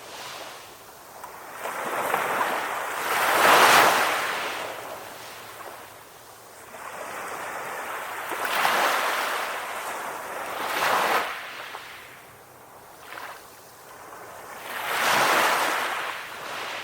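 Calm ocean waves breaking and washing in, the surf swelling and fading four times, the loudest swell about four seconds in.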